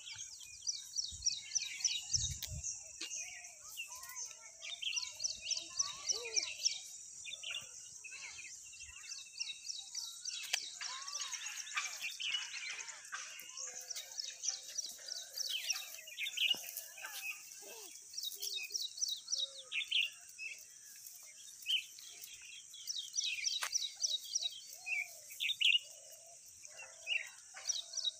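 Small birds chirping, many quick bursts of rapid high chirps again and again, over a steady high hiss.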